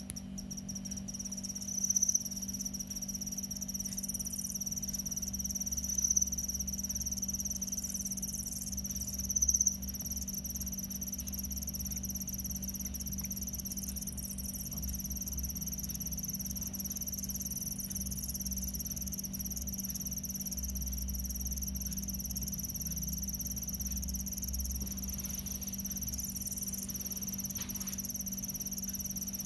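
Crickets trilling in a continuous high-pitched tone, swelling briefly louder a few times in the first several seconds, over a low steady hum.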